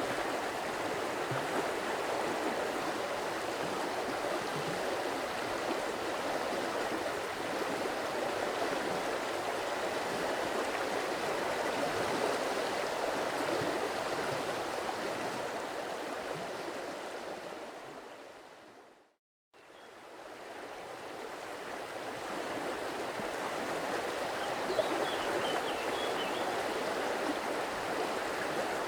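Stream water flowing and burbling steadily. About two-thirds of the way through it fades out to brief silence, then fades back in over a few seconds.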